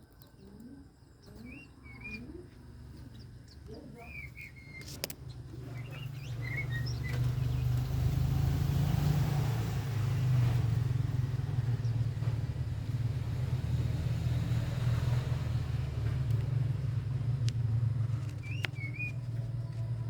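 A few short chirps from pleci (white-eyes) over a steady low engine hum that grows louder from about six seconds in and stays loud, drowning out the birds.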